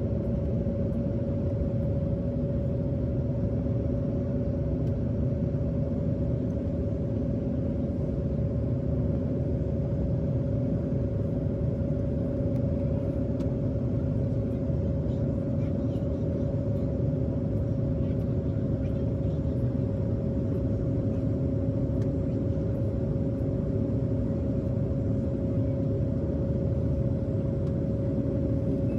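Jet airliner cabin noise in flight: a steady low rush of engine and airflow with a constant hum running through it.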